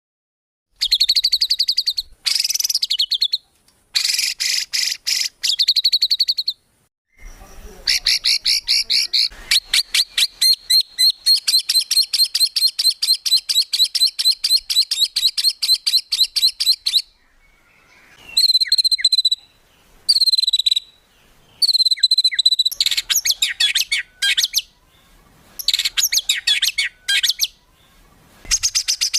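A compilation of songbird calls spliced together, as used for training caged birds: short, fast, high trills, then a long fast rattling phrase of rapidly repeated notes, then separate whistled phrases with brief gaps between them. The phrases start and stop abruptly.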